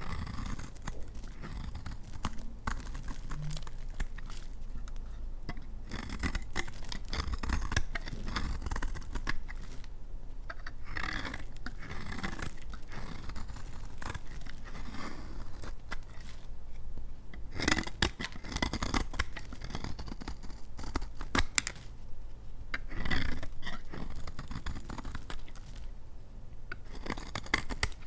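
Knife blade cutting through dry laundry soap in repeated strokes, a crisp scraping and crackling as the hard, dry soap shaves and breaks.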